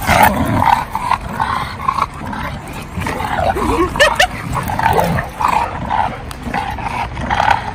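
Dogs yipping and whining, with a few short, pitch-bending yelps about four seconds in.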